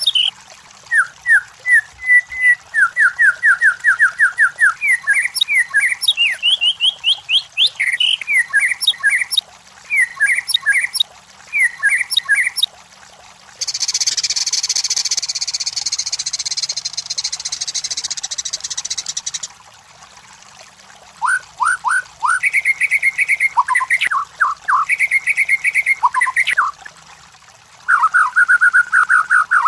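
White-rumped shama (murai batu) singing: fast runs of repeated whistled notes and trills in changing phrases. Partway through comes a harsh, hissing buzz that lasts about six seconds before the whistled phrases resume.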